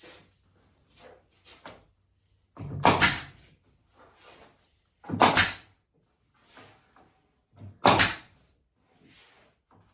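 Wooden parts handled on a workbench: three loud knocks about two and a half seconds apart, with lighter clicks and rustles between them.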